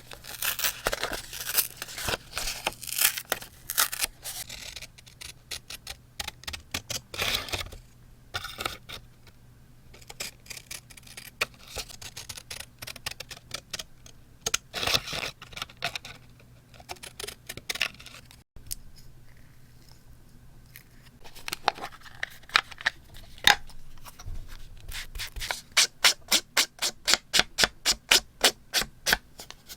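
Paper crafting sounds: scissors snipping and paper scraping and rustling. A run of quick, even clicks comes near the end.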